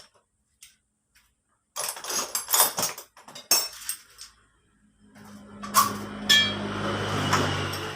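Metal tools and engine parts clinking and clanking against each other as the scooter engine is taken apart, a run of sharp knocks for about two seconds. About five seconds in, a steady mechanical whir with a low hum starts and runs for about three seconds before stopping.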